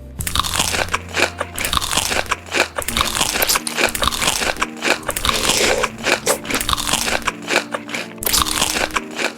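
Close-up crunching and chewing of crisp food: a dense run of sharp, irregular crunches.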